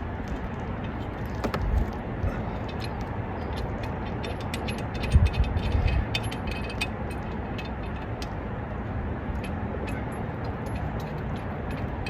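Light metallic clicking and clinking of a bolt, socket and tools being worked by hand while an EGR valve bolt is threaded in, with one heavier knock about five seconds in, over a steady low rumble.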